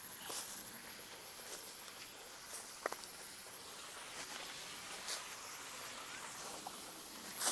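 Faint outdoor ambience: a few soft footsteps on soil, with a steady high thin whine throughout.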